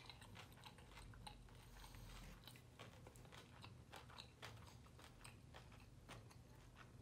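Faint close-up chewing of fried food: soft, wet mouth sounds with many small clicks and light crunches.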